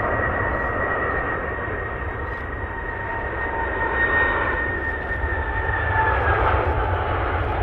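Jet airliner's engines passing, a steady high whine over a broad rumble; the whine drops slightly in pitch about six seconds in.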